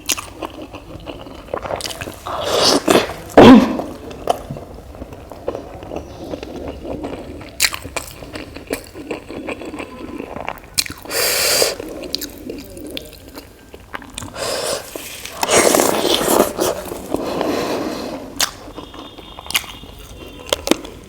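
Close-miked eating sounds: chewing and squishing mouthfuls of idli with sambar and coconut chutney, with many short wet clicks and several louder, longer smacking bursts.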